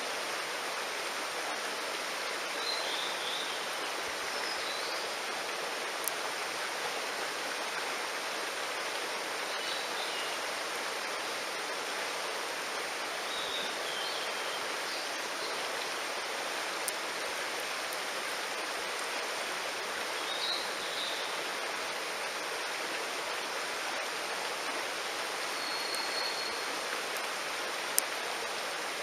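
Mountain stream rushing steadily, with short high chirping calls every few seconds and three sharp pops, the loudest near the end.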